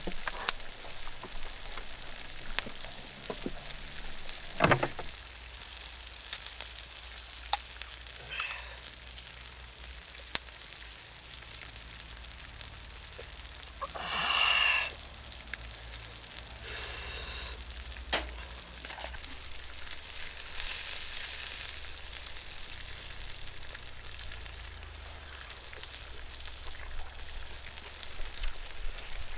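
Horumon (offal) sizzling steadily as it cooks, with scattered small crackles and pops. There is a sharp knock about five seconds in and a brief louder, brighter sound around the middle.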